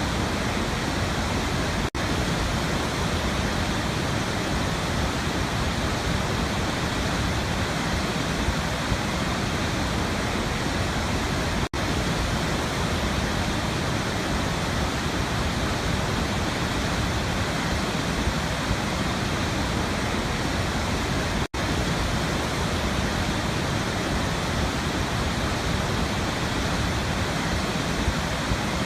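Waterfall rushing: a steady, even roar of falling water. It cuts out for an instant three times, about ten seconds apart.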